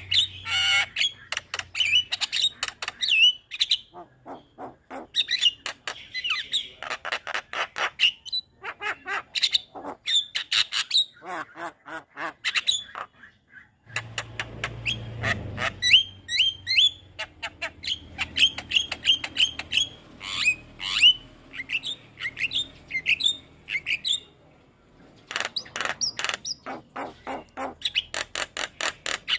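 Javan myna (jalak kebo) singing energetically: rapid runs of harsh, clicking chatter mixed with short whistled notes, broken by brief pauses.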